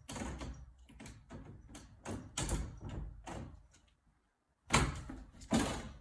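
A series of irregular knocks and bumps, about a dozen, with a pause past the middle and the two loudest near the end.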